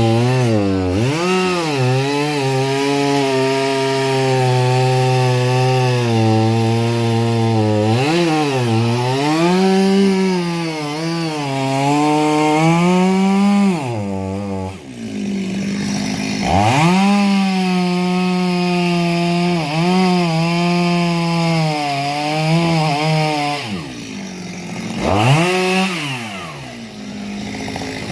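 Chainsaw engine running under repeated throttle, its pitch rising and falling over and over and held high for stretches while cutting. It eases off about halfway and again near the end.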